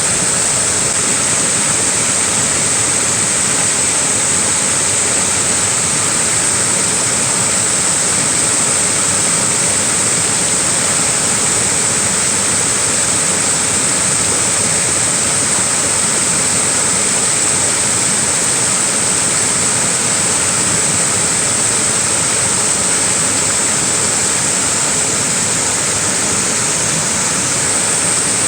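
Small waterfall: a steady, unbroken rush of falling water with a bright high hiss.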